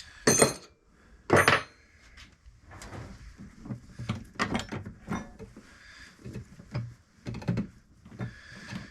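Knocks and clanks of hand tools and metal parts being handled during work on a compressor mount: two sharp knocks in the first second and a half, then a run of lighter, irregular clicks and taps.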